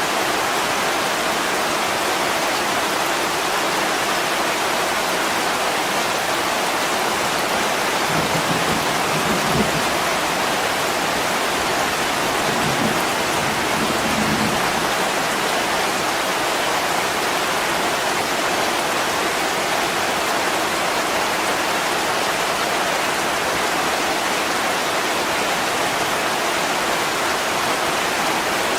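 Heavy rain pouring against window glass, a steady dense hiss. Twice in the middle comes a faint low rumble.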